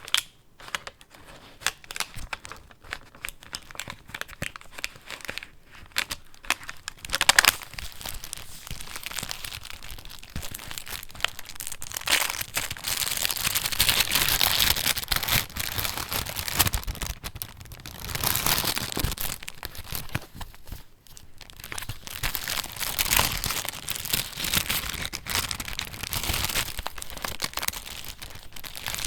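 Paper pages of a handmade junk journal rustling and crinkling as they are turned and handled, with many small crackles and clicks. The rustling swells into louder stretches about seven seconds in and again through the middle.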